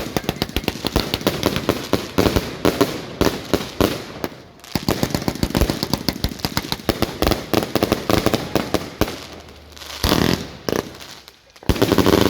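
Fireworks going off in a rapid, continuous barrage of cracks and bangs, several a second, easing off briefly before a louder burst near the end.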